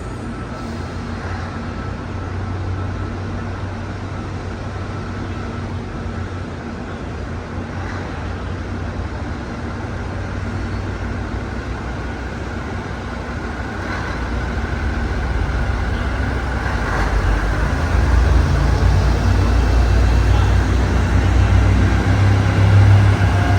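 JR Kyushu diesel railcar engine running with a steady low hum, which grows louder over the last several seconds.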